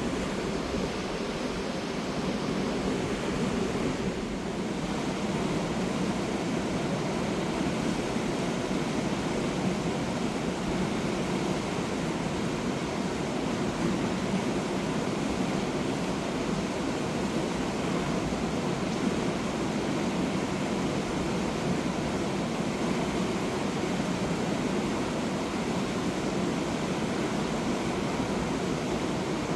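Fast mountain river rushing over rocks: a steady, unbroken roar of water.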